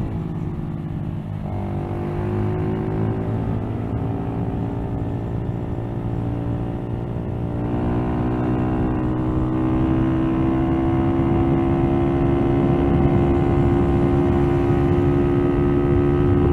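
Motorcycle engine running on the move, its pitch climbing slowly as it gathers speed. About eight seconds in the engine note changes and grows a little louder.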